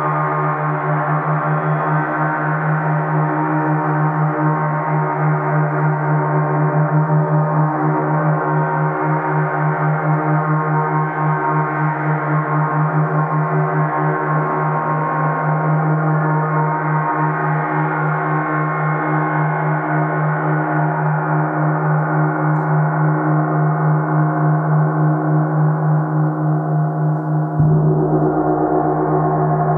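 A 30-inch (75 cm) Earth Element symphonic gong sounding continuously: a deep hum under a dense wash of many overtones, pulsing gently. Near the end a new stroke comes in and the mix of tones shifts.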